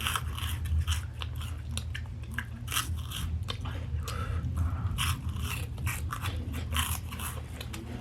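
Close-up crunching and chewing of a crunchy spicy snack: irregular crisp crunches as the food is bitten and chewed.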